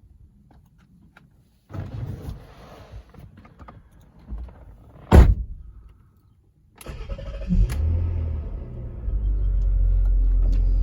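Rover 75 V6 petrol engine being started: about seven seconds in the starter cranks briefly, the engine catches with a short rev, then settles into a steady idle. Before that, rustling and one loud sharp thump about five seconds in.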